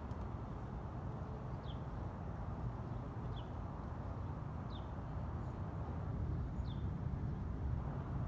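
A bird repeating a short, high chirp that falls in pitch, four times about a second and a half to two seconds apart, over a steady low outdoor rumble.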